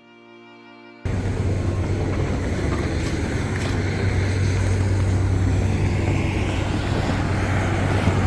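A soft string music track ends about a second in, cut off by a loud, steady engine rumble with a deep low hum under a broad rushing noise, which runs on unchanged.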